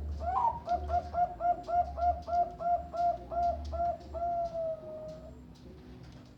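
Bangkok-type zebra dove (perkutut) singing: a rapid run of about a dozen short coos, about three a second, ending in one long drawn-out coo.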